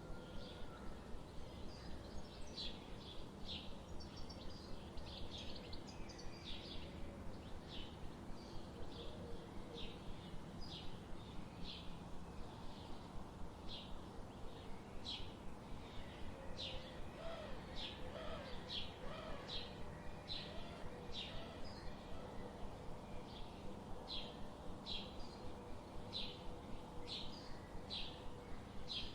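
Forest ambience: a bird repeats a short, high chirp over and over, about once or twice a second, over a steady low background noise, with a few faint lower warbling notes a little past halfway.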